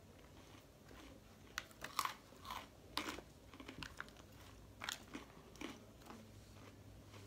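Close-up chewing of a lettuce and chicken-nugget salad: crisp bites and chews in clusters, about two seconds in and again near five seconds, along with light clicks of a plastic fork in a plastic salad bowl.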